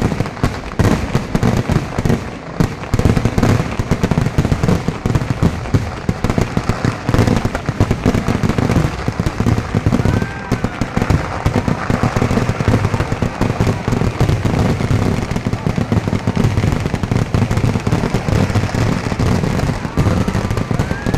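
Festival fireworks display going off in a dense, unbroken barrage of rapid bangs and crackling. Brief rising whistles are heard about halfway through and again near the end.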